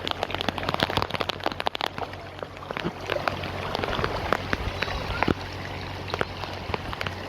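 Rain falling, with many sharp drop hits, densest in the first two seconds, over a low steady hum.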